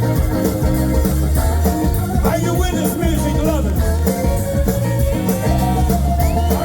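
Live blues band playing a song with a steady bass line and drum beat, and singing over it.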